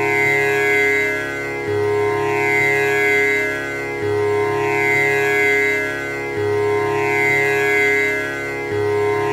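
Tanpura drone: its strings are plucked in a steady repeating cycle about every two and a half seconds, a low string opening each round, and the tones ring on into one continuous drone.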